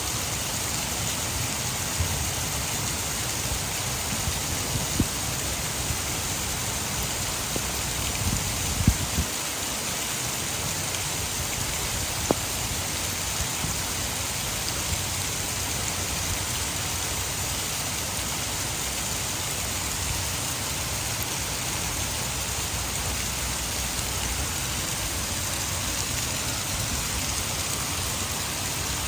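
Heavy rain falling steadily, with the rush of water falling from a hydroelectric dam mixed in. A few brief low knocks sound in the first ten seconds.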